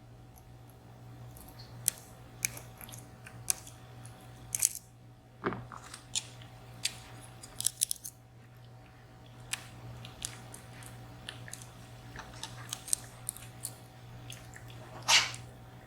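Dimple-lock pick and tensioner working in the keyway of a 14-pin, three-row VSR dimple lock: irregular small metallic clicks and scrapes as pins are set, with a couple of louder clicks about five seconds in and near the end.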